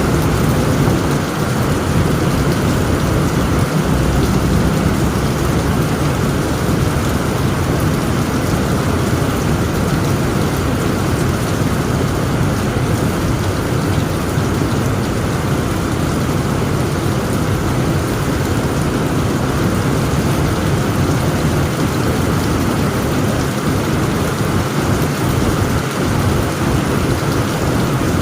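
Heavy rain drumming steadily on a tent roof, with low thunder rumbling underneath, strongest in the first few seconds.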